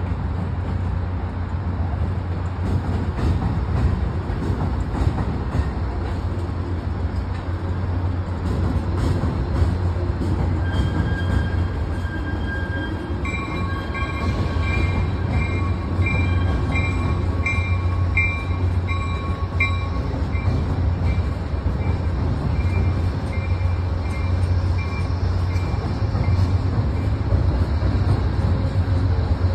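Amtrak Downeaster passenger train rolling past, a steady low rumble of the train. From about a third of the way in, a bell rings in a regular series of strokes, about one and a half a second, for some twelve seconds before it stops.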